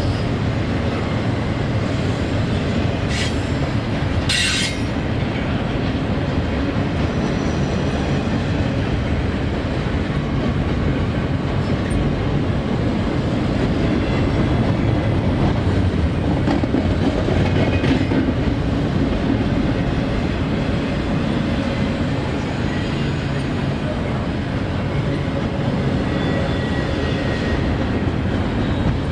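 CSX intermodal freight train rolling past: a steady rumble of wheels on rail with clickety-clack from the rail joints. There are two brief sharp high sounds about three and four and a half seconds in.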